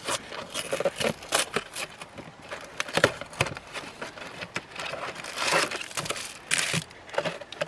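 Strawberry Pop-Tarts being opened: the cardboard box and foil wrapper tear and crinkle, with irregular clicks and rustles and two longer bouts of crinkling late on.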